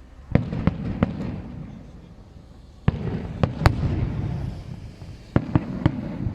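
Aerial fireworks shells bursting in three quick volleys of about three bangs each, each volley trailing off in a low rumbling echo.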